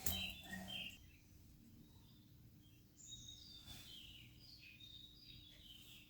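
Birds chirping in the background with short, repeated high calls, while a sharp knock sounds right at the start and a fainter one a little after the middle. A faint steady hum sits underneath.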